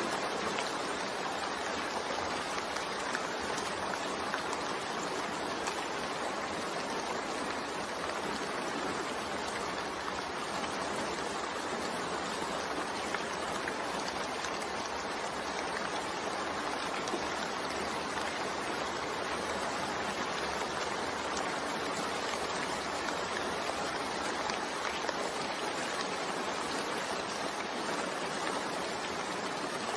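Steady, even rain falling, a continuous hiss of drops with no single sound standing out.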